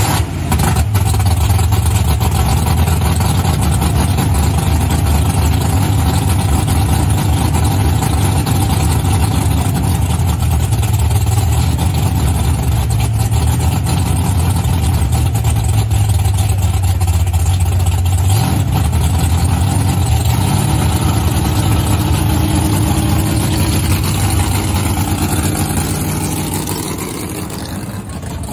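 A 426 Hemi V8 with a tunnel-ram intake, in a 1972 Plymouth Duster drag car, fires up right at the start and runs loud and steady at idle. Small rises and falls in engine pitch come later on.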